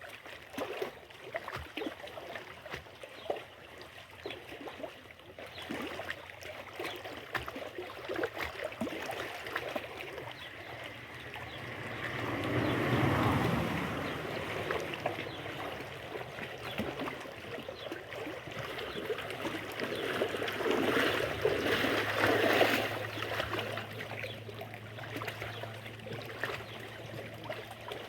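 Water lapping and trickling, with many small ticks and splashes. It swells louder about halfway through and again later on. A steady low hum sets in about three-quarters of the way through.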